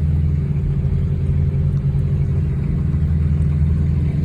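Nissan GT-R engine and road noise heard inside the cabin while cruising: a steady, loud low drone that holds an even pitch.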